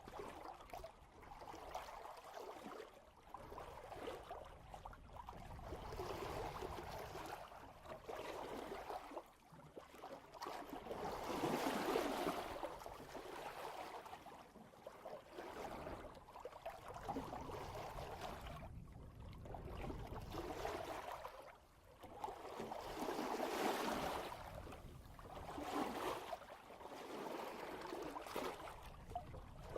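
Water rushing and splashing at the bow of a sailboat moving at about 3 knots, swelling and fading with each swell, loudest about twelve seconds in and again near twenty-four seconds.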